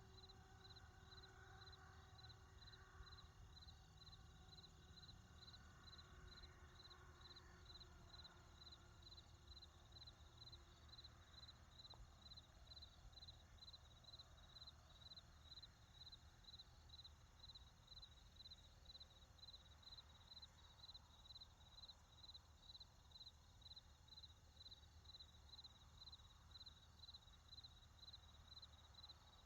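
Faint, regular insect chirping, like a cricket, repeating about twice a second over a low background hum.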